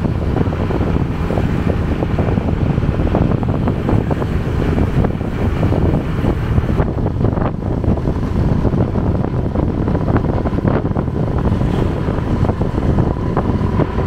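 Heavy wind buffeting the microphone of a rider on a moving motorbike, a loud, steady rush.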